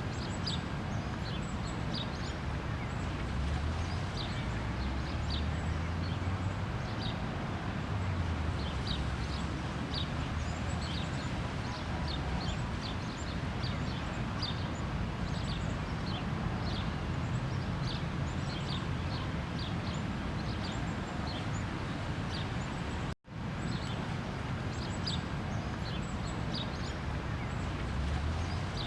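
Many small birds chirping, short high calls repeating over a steady outdoor background hiss with a low rumble. The sound cuts out for an instant about two-thirds of the way through.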